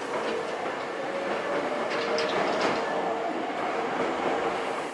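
Hankyu Railway electric train moving along the platform, wheels clacking over the rail joints under a steady running hum, with a few sharp clicks about two seconds in.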